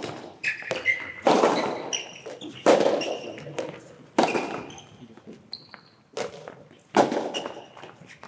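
Soft tennis rally: the rubber ball struck by rackets with sharp, echoing pops about every one and a half seconds, and short squeaks of shoes on the court between hits.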